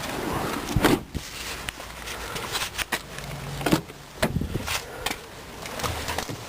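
Doors of a 2006 Dodge Durango being handled: several sharp clunks and clicks, the loudest about a second in and another near the middle, with handling noise between them.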